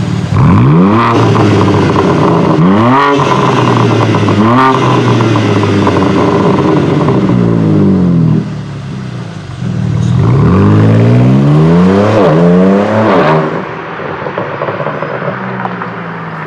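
BMW M4 Competition's twin-turbo inline-six running through an Akrapovic titanium slip-on exhaust, accelerating hard. The pitch climbs quickly in three short pulls with a drop at each shift, then falls off. After a brief quieter lull it pulls hard again, before easing off near the end.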